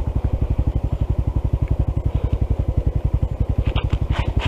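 Honda CT125's single-cylinder four-stroke engine running at low revs, a steady even chug of about ten beats a second.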